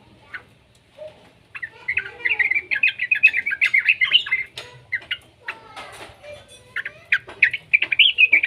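Young yellow-vented bulbul (trucukan) singing in two runs of rapid, bubbling chattering notes. The first starts about one and a half seconds in and the second comes near the end, with scattered clicks between them.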